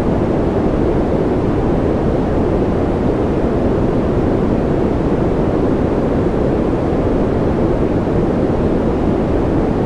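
Steady baby-sleep white noise: a constant, even rush weighted toward deep pitches, more a low rumble than a hiss, with no change.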